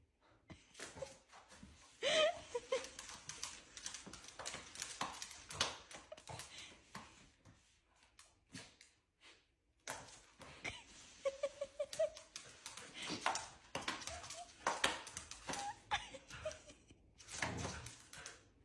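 A pomsky dog giving short whines and yips, with a run of short rising calls about two seconds in and again past the middle, over frequent clicks and taps.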